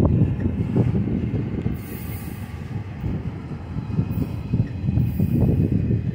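Double-stack intermodal well cars of a slow BNSF freight train rolling past, making a low, uneven rumble of wheels on rail, with a few brief high hisses.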